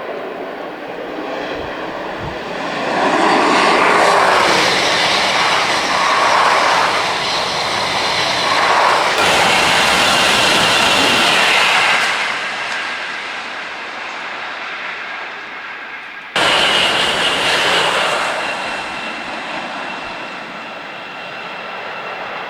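TGV high-speed train passing at full speed: a loud rush of air and wheel noise that swells for several seconds and then fades. About two-thirds through it breaks off suddenly and a second loud pass-by begins, dying away toward the end.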